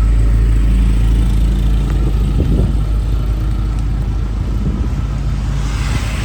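A motor vehicle's engine runs close by with a steady, low hum. A brief rush of hiss swells near the end.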